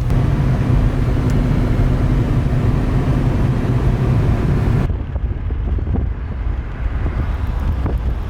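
Steady low rumble of a moving vehicle. About five seconds in, the hiss above it drops away abruptly while the rumble goes on.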